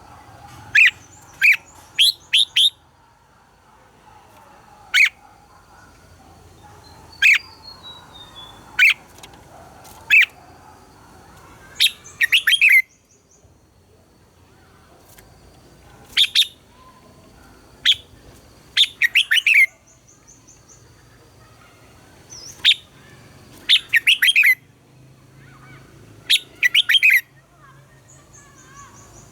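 Red-whiskered bulbul singing: short, loud phrases of quick chirping notes, repeated every second or few seconds with brief pauses between.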